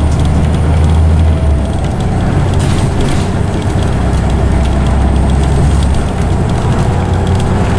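Scania OmniCity bus running, its engine a loud low drone that eases off about 1.5 s in and again about 6 s in, with the thin whine of its ZF automatic gearbox above it.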